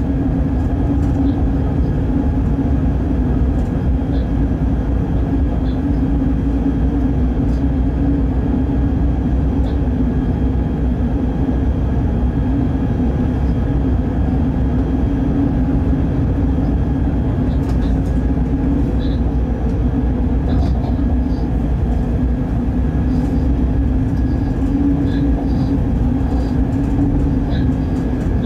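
Steady low rumble and drone inside a freight locomotive's cab running at speed on the line, with a few faint clicks.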